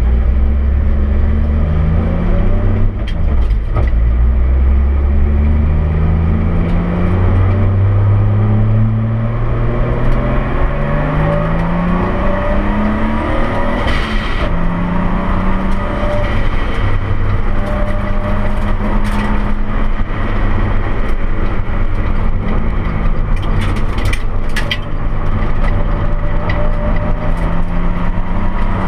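Nissan Skyline R32 GTS-T's RB25DET turbocharged straight-six under hard acceleration on track, its pitch climbing and dropping several times through the first half, then running steadier with smaller rises.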